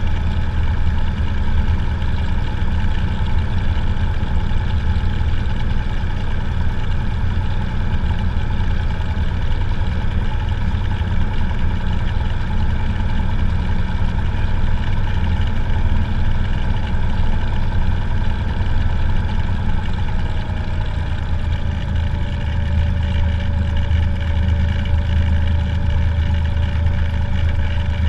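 Cessna 182's single piston engine and propeller droning steadily in flight. About 21 seconds in, a higher tone within the drone drops slightly in pitch and the low drone grows a little stronger.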